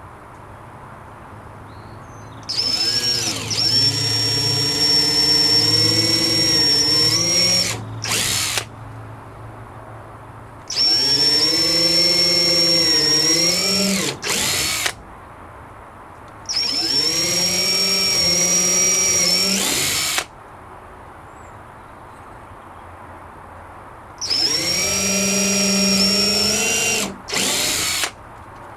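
Power drill run in four long bursts, each followed by a quick short burst, its whine sagging in pitch as it bites into the wooden gate while a hasp latch is fitted.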